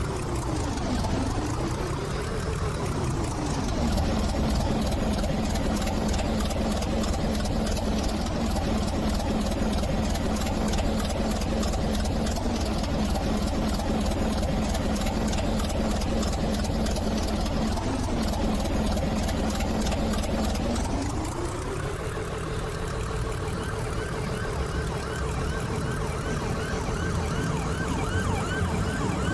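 Train running, heard as a steady low rumble with a motor whine. The whine wavers at first, holds one pitch, then glides up to a higher pitch and holds there for the last few seconds.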